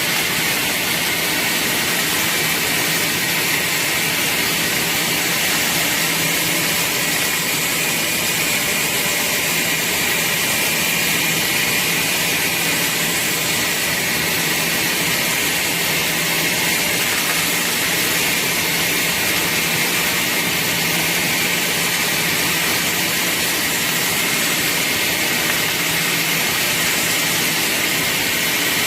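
Steady machine noise: a constant rush with a strong hiss and a faint whine in it, unchanging throughout.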